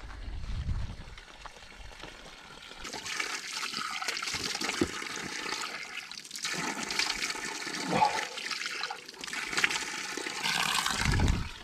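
Rushing, splashing water: a steady hiss that swells and fades, with a few short knocks and a low thud near the end.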